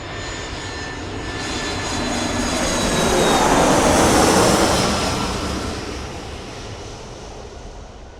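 Jet airliner passing overhead: engine noise builds to a peak about four seconds in and then fades away, with a high whine that slides down in pitch as it goes by.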